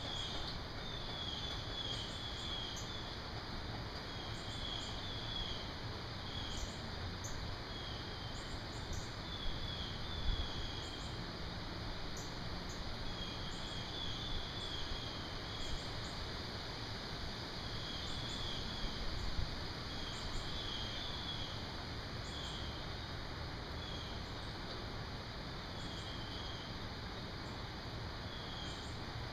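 Summer insects droning steadily at a high pitch, with short chirping calls repeating every second or two, over a steady outdoor hiss.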